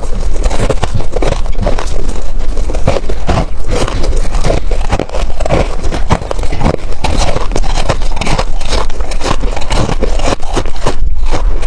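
Freezer frost crunching close to the microphone: a dense, unbroken run of irregular crunches and crackles.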